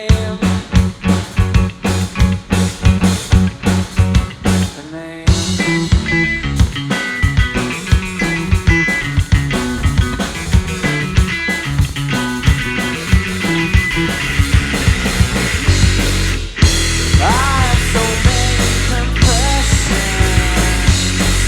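Live rock trio of electric guitar, bass guitar and drum kit playing a song. The band comes in fuller and louder about five seconds in.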